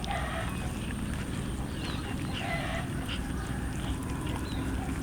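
Cats meowing, with one call at the start and another about two and a half seconds in, over a steady low background rumble.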